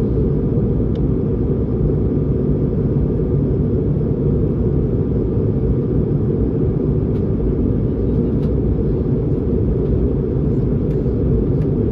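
Steady low rumble of Airbus A220-300 cabin noise in flight, engines and airflow with no change in pitch. A few faint ticks from the cabin sound over it.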